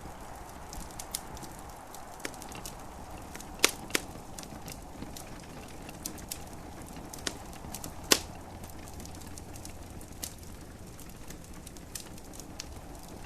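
Wood fire crackling in a fireplace, with irregular sharp pops and snaps; the loudest come about three and a half, four and eight seconds in. Beneath them runs a steady soft hiss of gentle rain.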